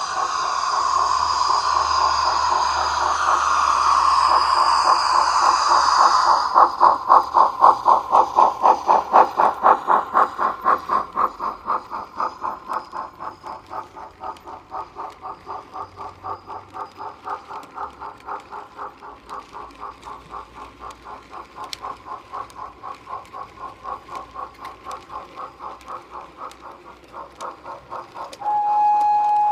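DCC sound decoder in a 00 gauge Black 5 model steam locomotive, heard through its small on-board speaker: a steam hiss for the first several seconds, then quick, even exhaust chuffs that slowly grow quieter. Near the end a steady whistle tone starts.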